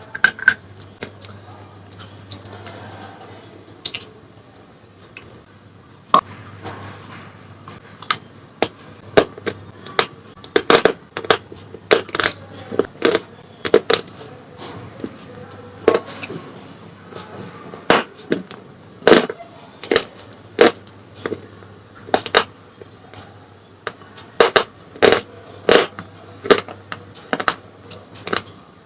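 Slate pencils being bitten and chewed close to the microphone: sharp, irregular crunches, sparse at first and coming thick and fast from about ten seconds in, over a faint steady low hum.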